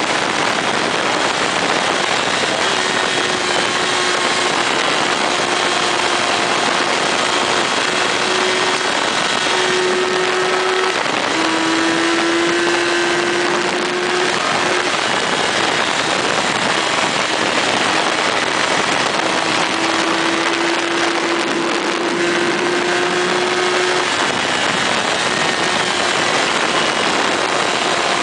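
Motorcycle engine running at cruising speed under heavy wind and road noise. The engine note climbs slowly twice as the bike speeds up.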